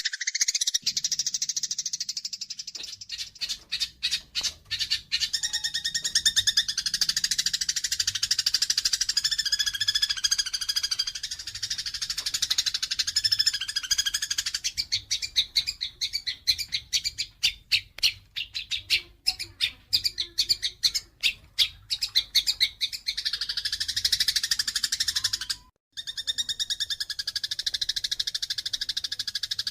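Eurasian tree sparrows chattering and chirping rapidly in a dense, continuous stream: the agitated calls of sparrows fighting. There is a brief break in the sound near the end.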